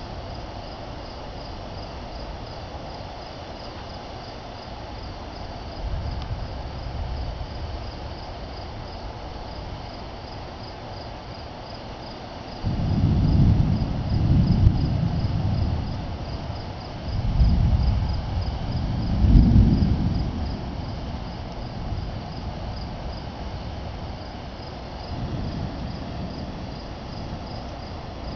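Crickets chirping steadily in an even, repeating rhythm, with several deep low rumbles swelling and fading about halfway through and again near the end, during a thunderstorm.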